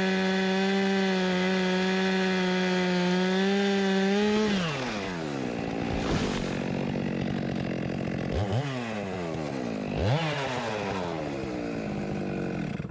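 Stihl MS 462 two-stroke chainsaw running at full throttle in a cut, dropping to idle about four and a half seconds in, then briefly revved twice.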